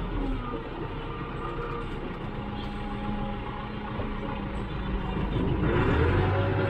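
Farm tractor engine running, dropping in pitch at the start and revving up again about five and a half seconds in, getting louder.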